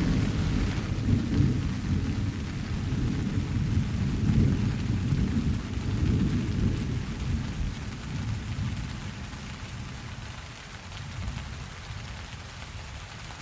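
Steady rain with a long roll of thunder: a low rumble that swells over the first several seconds and fades away about ten seconds in, leaving the rain.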